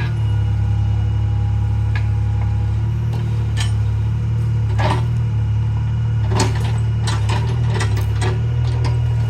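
Mini excavator's diesel engine running steadily, with scattered metallic clanks and scrapes, most of them in a cluster from about six to eight seconds in.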